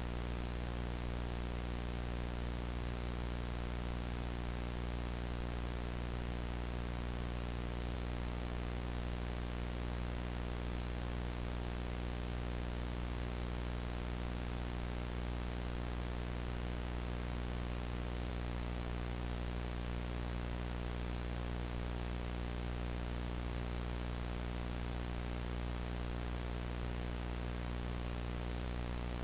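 VHS tape static: a steady, unchanging hiss with a low hum underneath.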